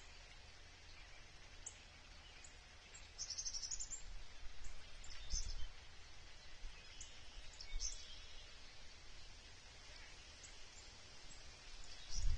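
Outdoor ambience of scattered short, high-pitched chirps from small birds over a steady background hiss, with a quick run of rapid notes about three seconds in.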